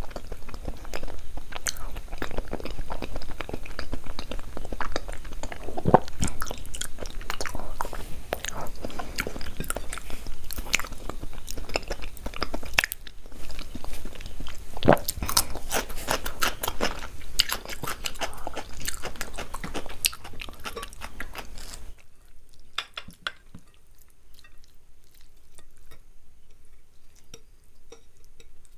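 Close-miked chewing and crunching of food, with sharp crunches now and then. About three-quarters of the way through it becomes quieter and sparser.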